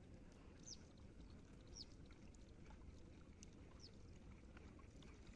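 Near silence: faint outdoor background with a small bird chirping faintly three times, each chirp short, high and falling in pitch.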